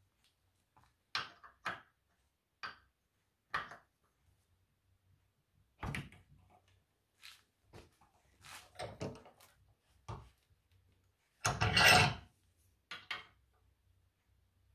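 Metal hand tools handled at a steel bench vise: a short metal tube is set in the vise jaws and a threading die stock is picked up, giving scattered knocks and clicks, with one longer, louder clatter near the end.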